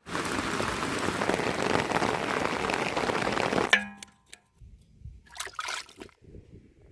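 Steady heavy rain hiss that stops abruptly a little over halfway through with a sharp knock, followed by a few faint scattered knocks and rustles.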